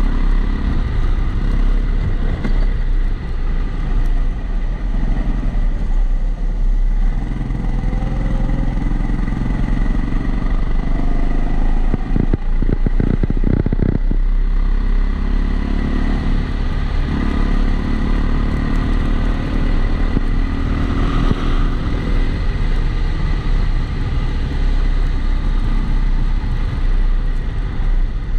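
Kombikart Eco kart engine running onboard, its pitch rising and falling as it accelerates and slows through the corners, with a burst of rattling about twelve seconds in. A steady extra noise runs under it, which the uploader puts down to the camera sitting in a housing.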